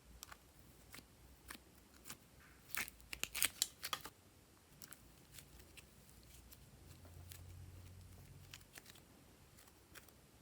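Slime being handled and pressed by hand, giving scattered small crackles and clicks, with a quick run of louder pops about three to four seconds in.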